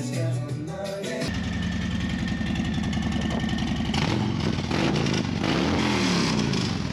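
Music cuts off about a second in, replaced by a vehicle engine running steadily amid street noise, its pitch shifting up and down a few seconds later.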